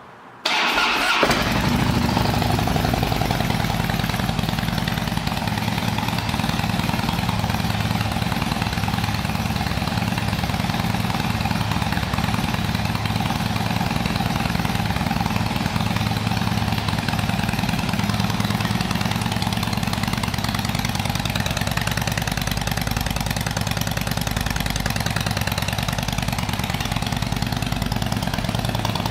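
2007 Harley-Davidson Softail Custom's air-cooled Twin Cam 96 V-twin starting about half a second in, catching with a short burst, then idling steadily through exhaust with perforated baffles.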